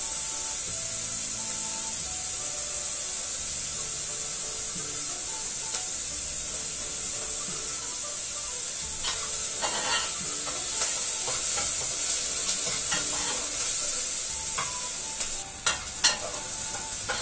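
Chopped onions sizzling in butter in a metal pan, a steady high hiss. In the second half a spoon stirring the onions clicks and scrapes against the pan a few times, the loudest a sharp knock near the end.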